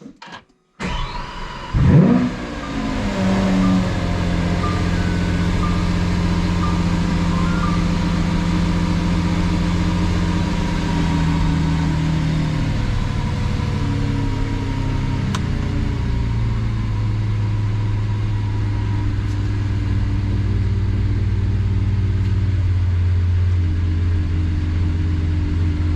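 Lamborghini Aventador's V12 engine cranking and catching about a second in, flaring up in revs briefly, then running at a steady fast idle that drops to a lower idle about halfway through: a cold start after six months unused.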